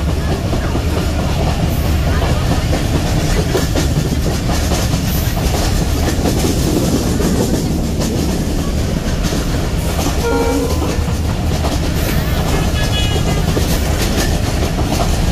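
Passenger train running, heard from aboard: a steady loud rumble with wheel-on-rail clatter. A short higher tone cuts through about ten seconds in.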